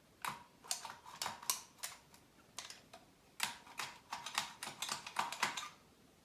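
Hand caulking gun being squeezed, a run of sharp clicks from its trigger and plunger rod, in two runs with a short pause about two seconds in.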